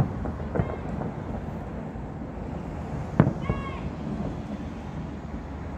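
Fireworks going off: one sharp bang at the start, a smaller one about half a second later, and another loud bang about three seconds in, over a steady rumble of wind on the microphone.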